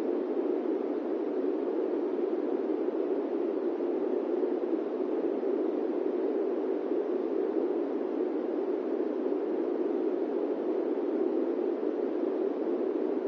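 Steady airplane cabin noise: an even, unchanging rushing hiss, deepest in the low-middle range, with no engine tones, bumps or changes.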